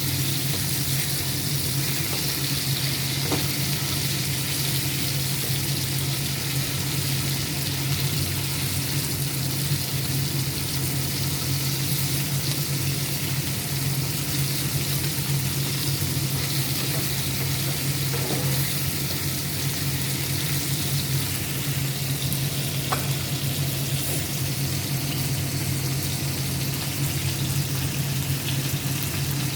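Marinated chicken pieces frying in oil in a pan, a steady sizzle with a few faint ticks and pops.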